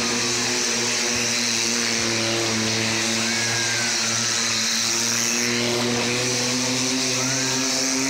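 Small car's engine running at a steady speed as it drives round and round the vertical wooden wall of a well-of-death arena, its hum holding one even pitch.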